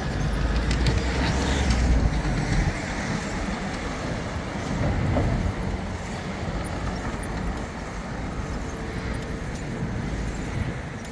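City road traffic running steadily, with a deep rumble in the first two or three seconds as a vehicle goes by close.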